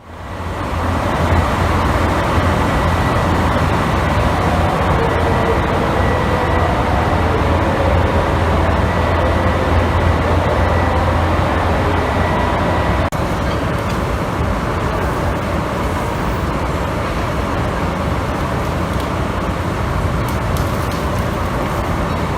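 DE10 diesel locomotive engine idling, a steady low hum with a faint high tone over it; the sound drops slightly and the tone stops about thirteen seconds in.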